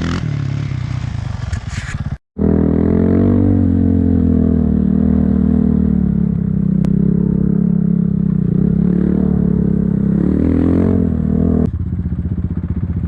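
Enduro motorcycle engine running hard under load, its note holding fairly steady with slight wavers. The sound cuts out completely for a moment about two seconds in, and near the end the engine drops sharply to a lower, quieter running note as the throttle comes off.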